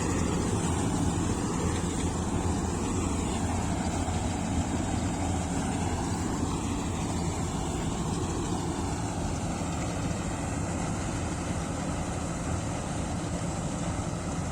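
Tractor diesel engine running steadily, a low even drone with no change in speed.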